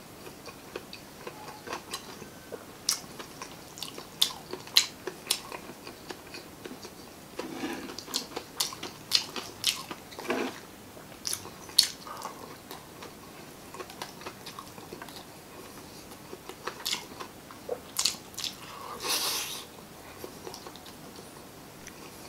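Close-miked mouth sounds of a person chewing spicy chicken-offal adobo and rice: a scatter of wet clicks, smacks and soft squelches, with a longer wet sucking or slurping sound near the end.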